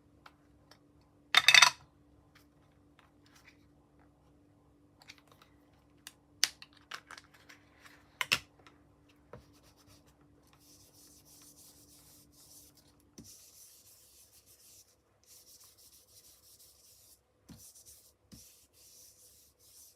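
Ink blending tool rubbed over card, applying yellow ink in short repeated brushing strokes from about halfway through. Before that, a sharp clatter near the start and a couple of single clicks as craft tools are handled.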